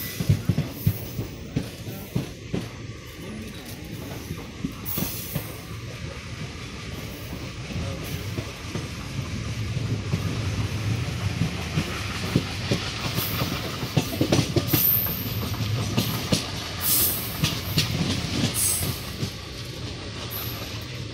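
Passenger train coach running along the track, wheels clattering irregularly over the rails beneath a steady rumble, heard through an open coach door.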